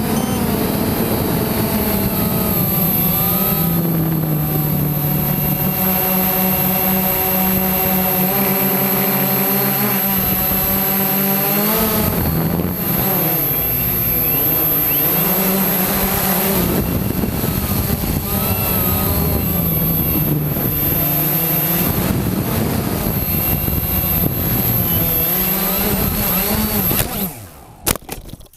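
Quanum Nova quadcopter's motors whirring in flight, the pitch rising and falling as the throttle changes. About a second before the end the motor sound cuts off sharply as the drone drops and hits the ground.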